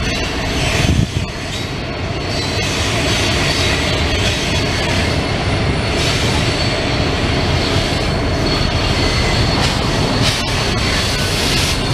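Freight train cars rolling by on the rails: a steady rumble with thin, high wheel squeal over it and a few sharp clacks.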